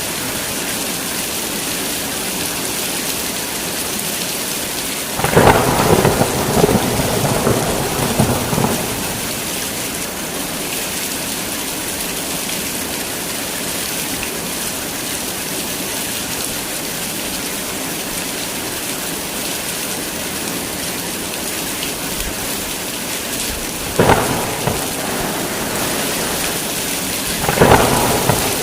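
Heavy rain falling steadily in a thunderstorm, with thunder cracking and rumbling three times: a long peal about five seconds in, then two shorter cracks near the end.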